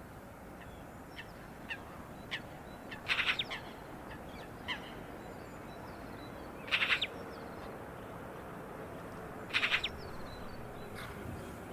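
A bird calling: short, harsh, rasping calls repeated about every three seconds, with faint single chirps in between.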